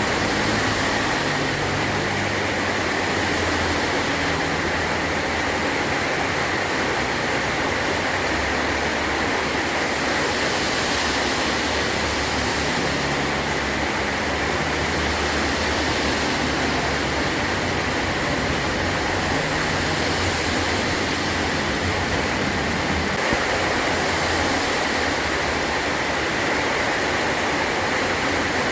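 Heavy rain drumming steadily on a tin roof, an even, unbroken hiss with no thunder clap standing out.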